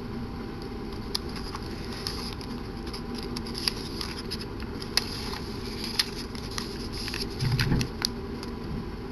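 Packaging being handled during an unboxing: scattered sharp clicks and crackles, and a short dull thud near the end, over a steady low hum.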